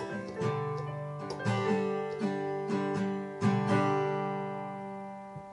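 Acoustic guitar strumming the closing chords of the song, the last chord struck a little past halfway and left to ring and fade away.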